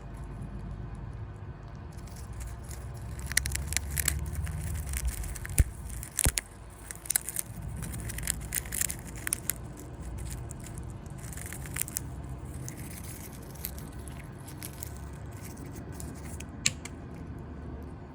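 A small rodent gnawing and crunching food close to the microphone: irregular crisp crackles and snaps, thickest in the first half, over a low steady rumble.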